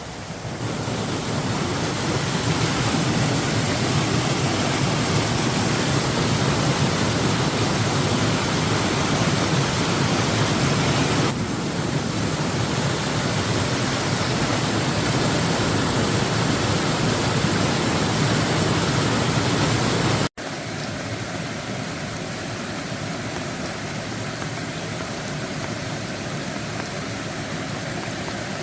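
Steady, loud rushing noise of water, rain or floodwater flowing. It cuts out for an instant about two-thirds of the way through and comes back somewhat quieter.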